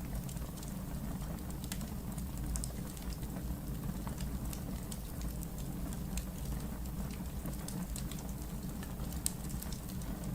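Wood fire burning in a fireplace: a steady low rumble with scattered small crackles and one sharper pop about nine seconds in.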